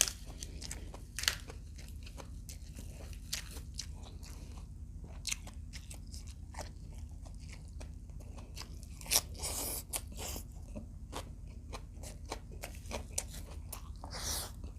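Close-up mouth sounds of chewing and crunching crispy fried adobo quail, with sharp crunches scattered throughout and a louder crunch about nine seconds in, over a steady low hum.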